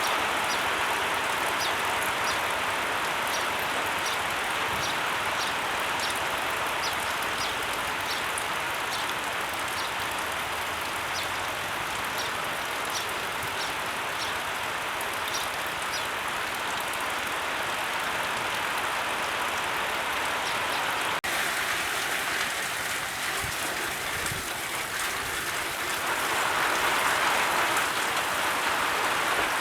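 Steady, even hiss of water noise, like rain or flowing water. For the first half a short high tick repeats a little faster than once a second. The sound changes abruptly about two-thirds of the way in.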